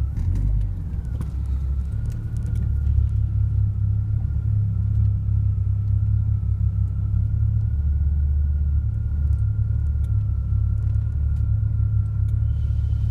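Steady low rumble heard from inside a car at an automatic car wash, with a thin steady whine from the car wash machinery that starts about a second in, rises slightly and then holds.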